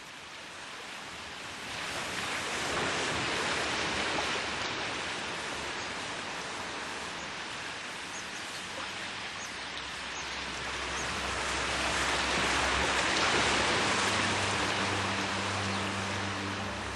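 Sea waves surging and washing in, the rush swelling twice. Low sustained music notes fade in during the second half.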